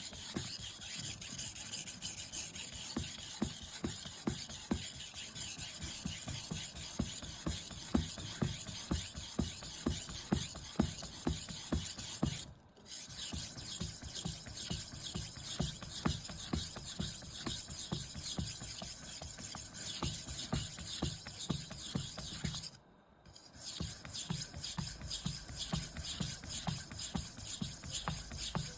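Steel knife blade being ground back and forth on a 500-grit Shapton Glass whetstone: a steady run of rapid scraping strokes, broken twice by short pauses.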